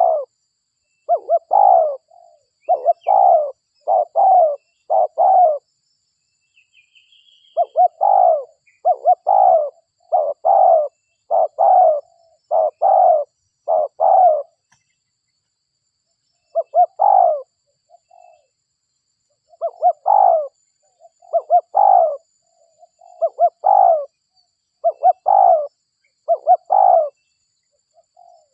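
Spotted dove (derkuku) cooing over and over in runs of several coos with short pauses between runs: a vocal bird's call used as a lure call to draw other derkuku. A few faint high chirps of a small bird sound between the runs.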